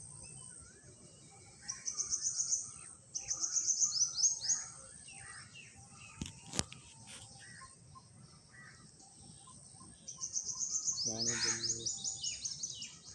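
Rapid, evenly repeated high bird chirps coming in three bursts of about a second or more each. Two sharp clicks come around the middle, and a short burst of voice comes near the end.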